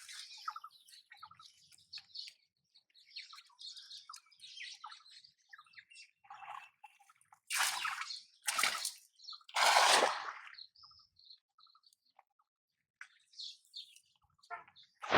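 Small birds chirping in short scattered calls, with three loud noisy bursts a little past the middle.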